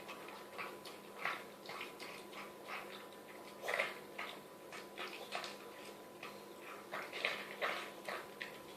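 Chihuahua noisily slurping and snarfing soup from a bowl: a run of irregular wet smacks and slurps, the loudest about four seconds in and again near seven seconds.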